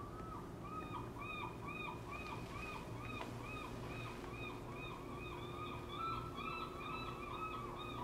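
A bird outside calling a long run of identical short notes, about two to three a second, each rising and falling in pitch.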